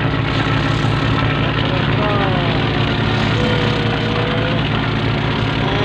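Fishing boat's engine running steadily with a constant low drone, with faint voices over it.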